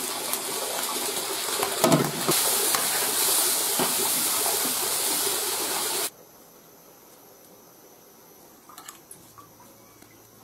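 Minced meat sizzling in hot oil in a large iron wok, with a few scrapes of a metal spatula. The sizzle grows louder about two seconds in and cuts off suddenly about six seconds in. Then it is quiet, with a few faint small taps of a spoon packing filling into bitter melon.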